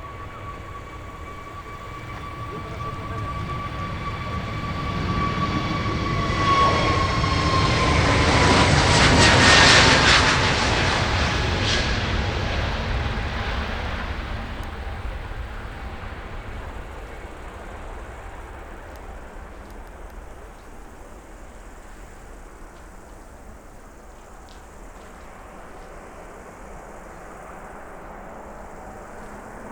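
Jet airliner passing close by: its engine whine holds steady, then drops in pitch as the aircraft goes past about ten seconds in, where the jet noise is loudest, and then fades slowly away.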